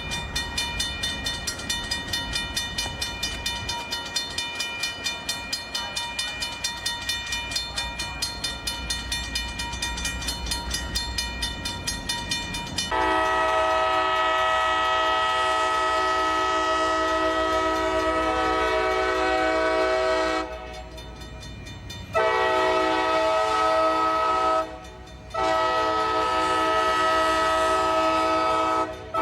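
A railroad crossing bell rings rapidly, about three to four strokes a second. About halfway through, a locomotive's multi-chime air horn cuts in loudly and sounds three long blasts with short breaks between them, as a train approaches the crossing.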